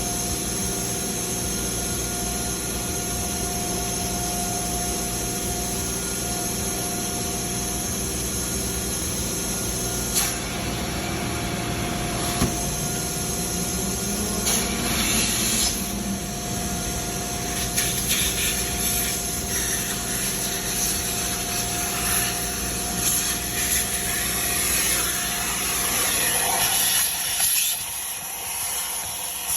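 A steady machine drone with a couple of knocks and stretches of hissing.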